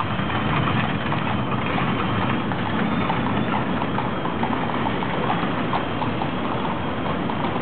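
Hooves of a horse pulling a tram clip-clopping on the street, a steady run of sharp hoof strikes over continuous street noise.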